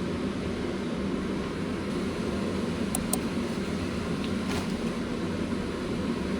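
Steady low rumbling noise, with a couple of faint clicks about three seconds in.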